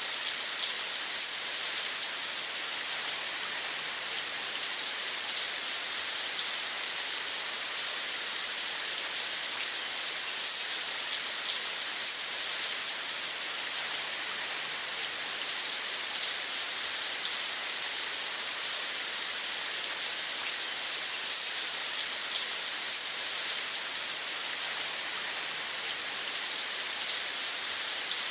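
Steady rain falling: an even hiss with a fine patter of drops that does not change.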